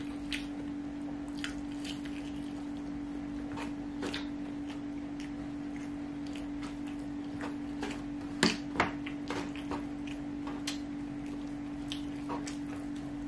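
Close-up wet mouth sounds of a person chewing fried rice and smacking their lips: scattered soft clicks, with two louder smacks in quick succession a little past halfway. A steady low hum runs underneath.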